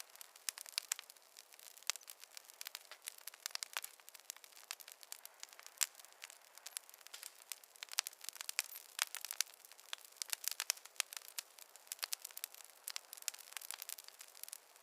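Wood fire crackling in a fireplace: a dense, irregular run of sharp pops and snaps over a soft hiss, with no low rumble.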